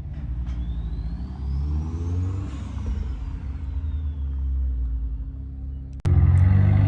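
A car engine running and revved once, its note climbing and falling back about two and a half seconds in, with a thin high whine rising and falling along with it. About six seconds in, the sound cuts abruptly to a much louder engine.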